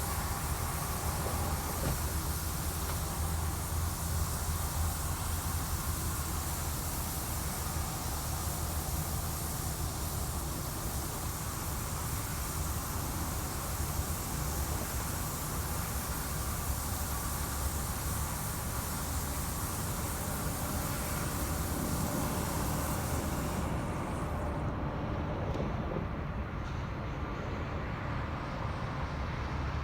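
Steady low mechanical drone with a hum, running evenly; the high hiss in it drops away about 24 seconds in.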